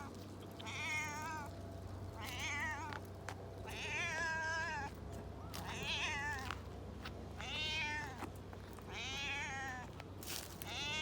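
A domestic cat meowing over and over, about six drawn-out calls with a wavering pitch, each a second or so apart.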